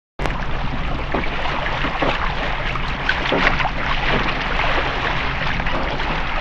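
Water splashing and lapping around a kayak, with wind rumble on the microphone; it starts abruptly a moment in.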